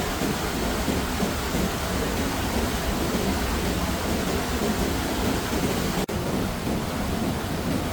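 Steady, heavy water noise, rain and rushing floodwater, with a deep rumble underneath. It drops out for an instant about six seconds in.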